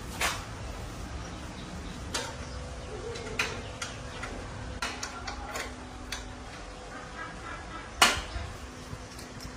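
Scattered metallic clicks and knocks of hand tools working on bicycle parts, irregular, with one sharp knock about eight seconds in louder than the rest.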